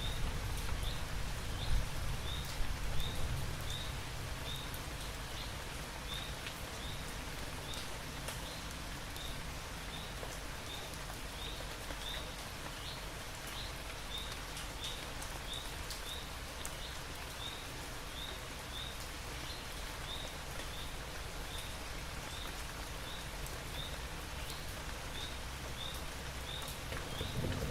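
Steady rain falling, with a short high chirp repeating about three times every two seconds from a small animal calling. A low rumble sits under the rain in the first few seconds.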